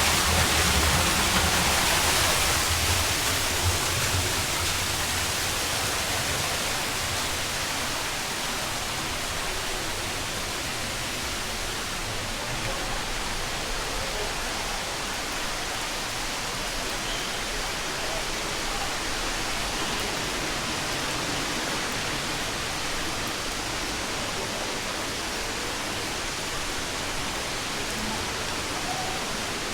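Waterfall rushing: a steady hiss of falling water, a little louder in the first few seconds and then settling to an even level.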